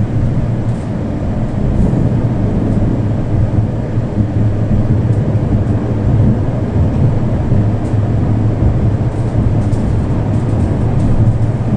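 Steady, loud running noise of a tram in motion heard from inside the passenger car: a low rumble of wheels on the rails and the traction drive, with no distinct knocks or changes.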